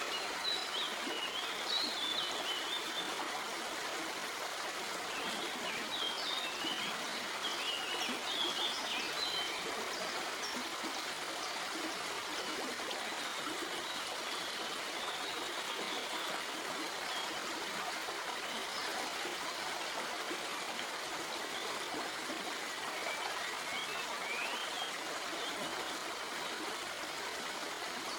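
Shallow stream flowing over rocks, a steady rush of trickling and babbling water. A few short high chirps sound in the first ten seconds and again near the end.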